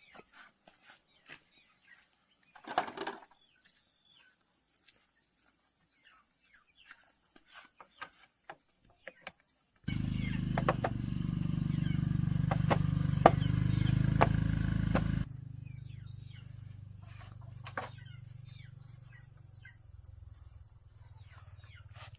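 Small birds chirping. About ten seconds in, a loud low steady rumble starts, with a few sharp clicks, and cuts off abruptly about five seconds later, leaving a quieter low hum.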